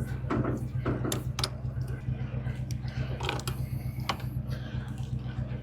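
Truck camper's corner jack being hand-cranked to lift the camper: irregular mechanical grinding and clicking strokes, over a pickup engine idling steadily.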